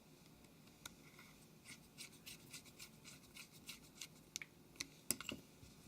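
Small T2 Torx screwdriver driving a tiny screw into a phone's case: faint, irregular clicks and scrapes, a few a second, with a few sharper clicks near the end.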